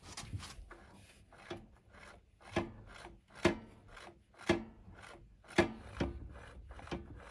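Rhythmic scraping strokes, about one a second, from a hand tool being worked back and forth.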